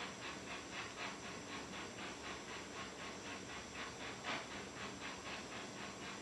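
Dog panting softly in a quick, even rhythm of about four breaths a second.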